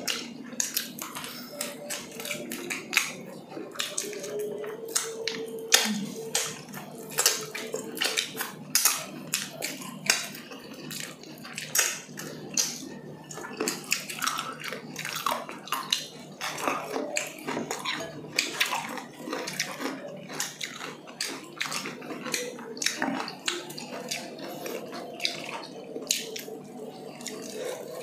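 Eating grilled chicken inasal by hand: wet chewing and lip smacking, heard as many quick, irregular clicks.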